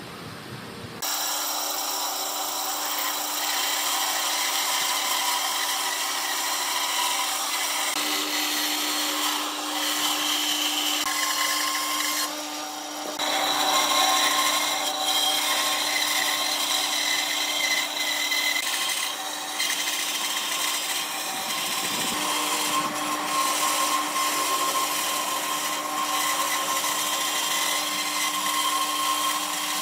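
Electric woodworking power tool running steadily with a high whine while working wood, starting abruptly about a second in and dipping briefly twice along the way.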